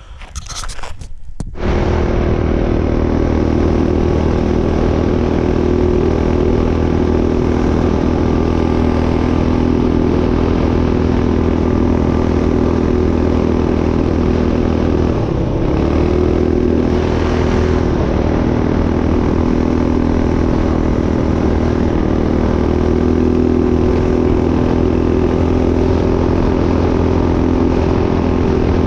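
Kit-built minibike's single-cylinder Tillotson 212 engine catching about a second and a half in after a short rough burst, then running steadily at idle, with a brief dip in speed about halfway through.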